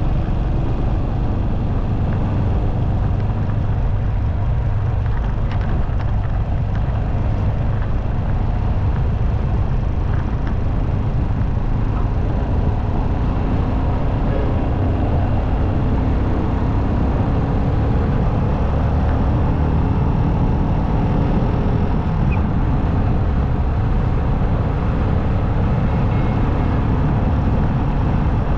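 Motorcycle riding at steady highway speed: a constant low rumble of engine and wind, unchanging throughout.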